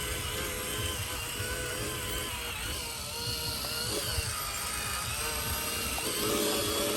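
Small electric motors and gearboxes of radio-controlled construction models whirring steadily, their whine rising and falling in pitch.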